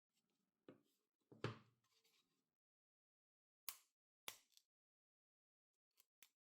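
A handful of sharp knocks and taps from objects being handled and set down. The loudest and fullest comes about a second and a half in, two crisp clicks follow around four seconds in, and two lighter ticks come near the end.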